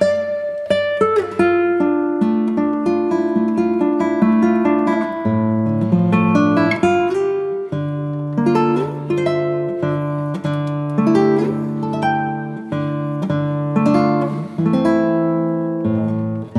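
Background music: an acoustic guitar playing a gentle melody of picked notes, each ringing and fading.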